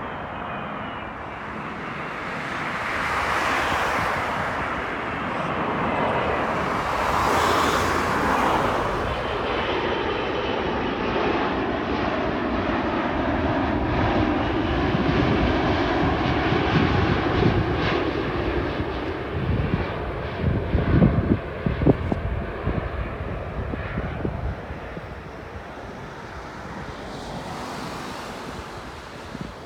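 Airliner landing heard from inside the cabin: a steady roar of jet engines and rushing air that swells early on, with an engine tone that dips and rises. A run of sharp knocks and rattles comes about two-thirds of the way through, typical of the wheels touching down and rolling on the runway, before the roar eases off.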